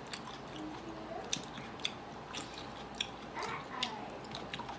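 A person chewing and biting into red grapes, with irregular short sharp mouth clicks.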